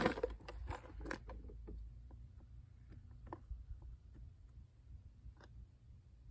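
Rummaging through a plastic tackle box: scattered light clicks and rattles, busier in the first two seconds and sparser after, over a low steady rumble.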